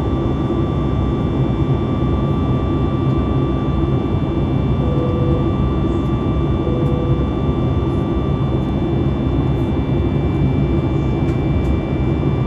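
Steady roar and hiss of a Boeing 737 MAX 8's CFM LEAP-1B jet engines and airflow, heard from inside the passenger cabin in flight, with a few steady tones held over the noise.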